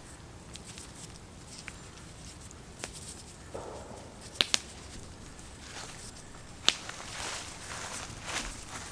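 Light rustling and shuffling on the forest floor with a few sharp cracks. The loudest cracks are a close pair about four and a half seconds in and a single one a couple of seconds later.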